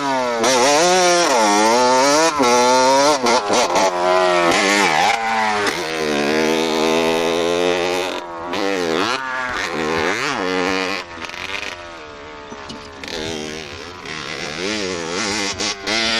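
Motorbike engine being ridden hard, its pitch climbing and dropping again and again as the rider works the throttle through the gears; it grows quieter after about eleven seconds as the bike moves away.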